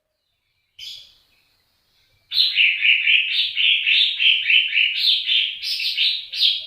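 A songbird singing: one short call about a second in, then a fast run of evenly repeated chirping notes, about four a second, from about two seconds in.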